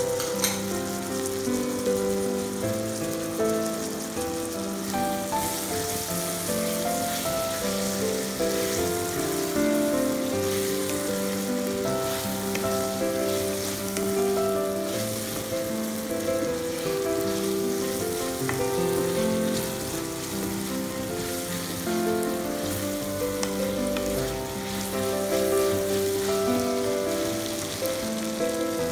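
Chopped tomato, onion and green capsicum sizzling as they fry in a pan, a steady hiss, under background instrumental music.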